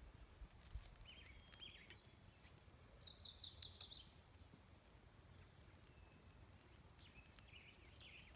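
Songbird calling: a quick trill of about eight rapid notes about three seconds in, with softer chirping calls near the start and again near the end, over faint outdoor background noise and a few faint clicks.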